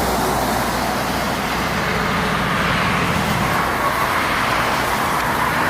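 Steady road-traffic noise, with a heavy diesel truck engine running as it passes.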